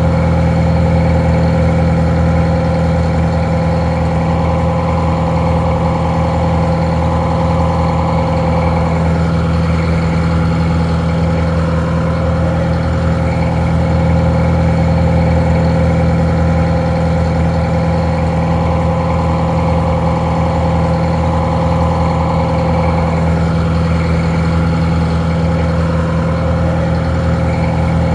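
Detroit Diesel 4-71 two-stroke inline-four diesel idling steadily, sounding a little muffled.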